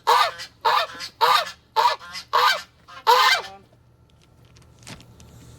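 Domestic goose honking loudly and repeatedly, about two calls a second, six in all with the last one longer, stopping about three and a half seconds in. A faint click follows near the end.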